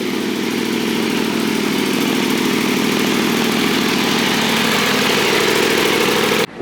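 Car engine idling loudly and steadily, close up, cutting off suddenly near the end.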